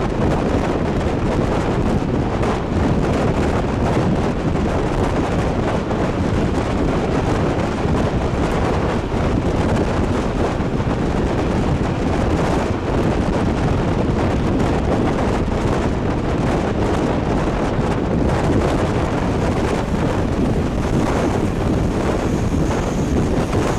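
Wind buffeting the microphone over the steady rumble and rush of a passenger train running at speed, heard from an open carriage window. A faint high whine comes in near the end.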